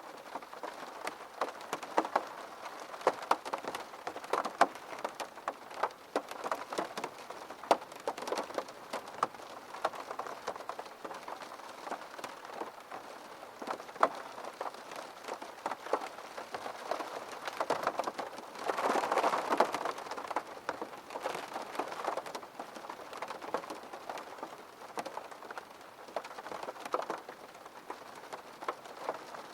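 Rain striking a window pane: many separate drop hits over a steady hiss, with a heavier spell of about two seconds roughly two-thirds of the way in.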